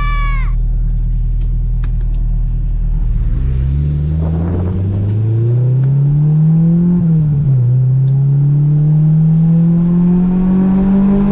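Honda Civic engine heard from inside the car, running steadily at low revs, then accelerating from about three seconds in. The revs climb, drop at an upshift about 7 seconds in, then climb again.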